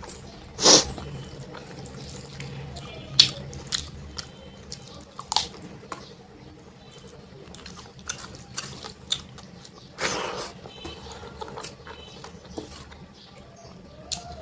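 Close-up eating sounds of a person chewing a mouthful of rice, dal and fried fish: wet smacking and clicking throughout, with two louder breathy noises, one just under a second in and one about ten seconds in.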